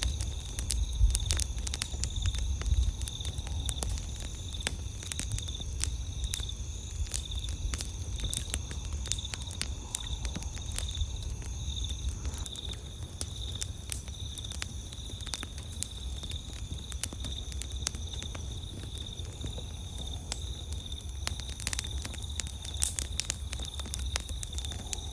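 Wood campfire crackling, with frequent sharp pops and snaps, over the steady high chirring of night insects at two pitches, the lower one pulsing rapidly. A low rumble runs underneath.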